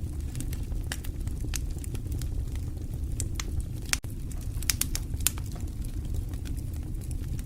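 Wood fire burning in a fireplace: irregular sharp crackles and pops over a steady low rumble of flames, with a quick cluster of louder pops a little past the middle.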